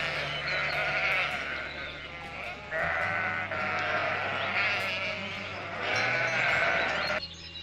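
Bleating of sheep or goats: three long wavering calls, the last one cutting off abruptly near the end.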